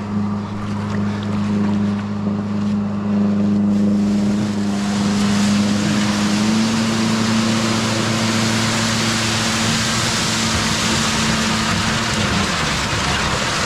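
Motorboat engine running under throttle with a steady hum that steps up slightly in pitch about halfway through, while a loud rush of water and spray builds from about a third of the way in; the engine note fades near the end.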